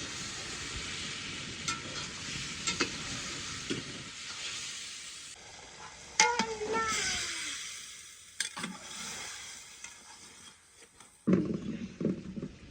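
Food frying in a pot of hot oil, sizzling steadily while a utensil stirs and clicks against the pot. After about five seconds the sizzling breaks off; a brief sound with gliding pitch follows, and voices come in near the end.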